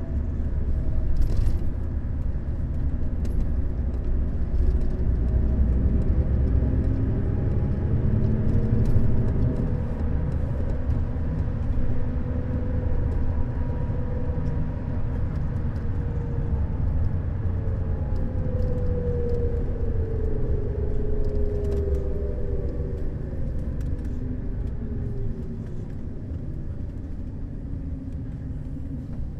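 Neoplan Skyliner N 1122/3C double-decker coach driving, a heavy low rumble with an engine and drivetrain whine that slowly rises and falls in pitch, plus scattered light rattles.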